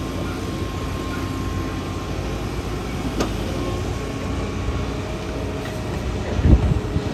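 Kobelco excavator's diesel engine running steadily under work, with a short sharp knock about three seconds in and a heavy low thump near the end.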